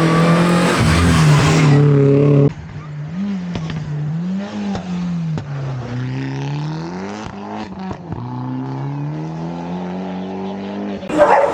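Rally car engine at full throttle, loud, until it cuts off abruptly after about two and a half seconds; then a rally car engine heard further off, its pitch rising and falling over and over as it revs, shifts gear and lifts off. A sudden loud noisy sound breaks in right at the end.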